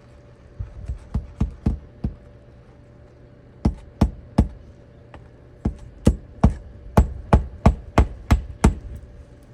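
Repeated sharp knocks in three runs: about six quick ones, then three, then a steady run of about ten at roughly three a second, over a faint steady hum.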